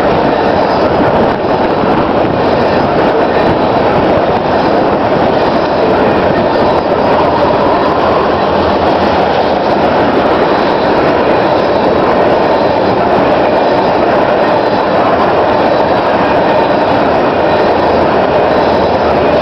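Cars of a Canadian Pacific petroleum freight train rolling past: a loud, steady rumble and rattle of steel wheels on the rails, with a faint thin high squeal running under it.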